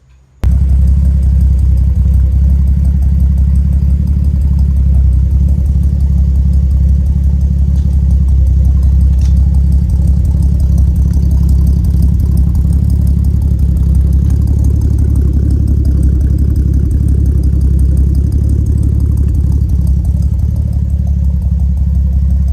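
Turbocharged Datsun 280Z running steadily at idle through its newly fitted 2.5-inch exhaust with rear muffler: a loud, low, even exhaust note that cuts in sharply just after the start.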